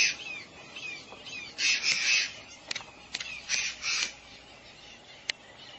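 A bird giving harsh, squawking calls in three pairs a couple of seconds apart, with a few sharp clicks between them.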